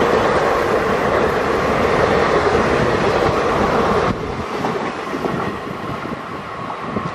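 ICF passenger coaches of an express train running past on the track: the steady noise of wheels on rails, which drops abruptly about four seconds in.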